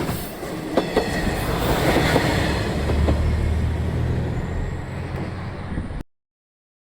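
Matsuura Railway diesel railcar running past, with a low rumble and a few sharp wheel knocks over rail joints. The sound cuts off suddenly about six seconds in.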